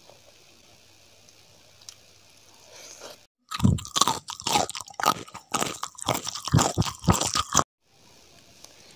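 Loud, close-up crunching and chewing of crisp food, a quick irregular run of crunches lasting about four seconds that starts and stops abruptly.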